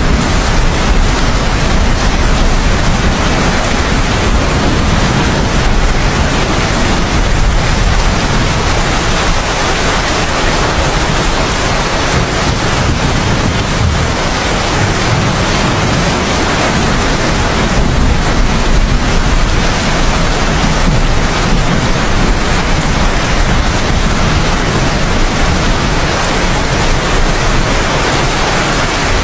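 Heavy, steady rain, with a deep rumble of distant thunder underneath that swells and eases a couple of times.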